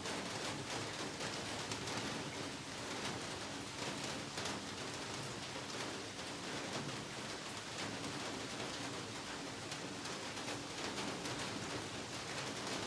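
Heavy rain falling steadily: a dense, even hiss with fine patter of close drops.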